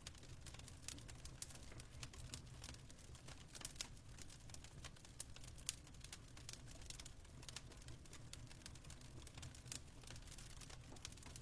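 Wood fire crackling faintly, with irregular snaps and a few louder pops over a low steady rumble.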